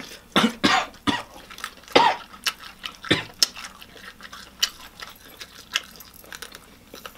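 Close-miked eating sounds of crispy fried chicken: irregular crunches, smacks and mouth clicks from biting and chewing, with a louder short throaty sound about two seconds in.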